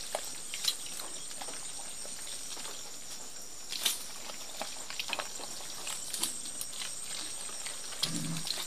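Quiet outdoor background with a faint steady high tone, broken by scattered light clicks and rustles from hands working rice plants and wet soil.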